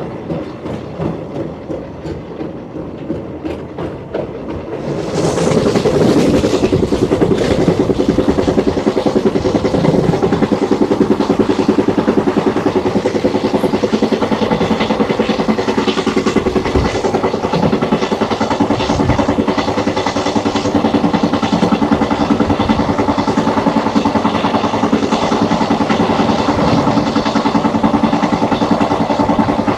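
Passenger express train running at speed, its wheels clattering over the rails, heard from just outside the coach. About five seconds in, the sound gets much louder and hissier, then stays steady.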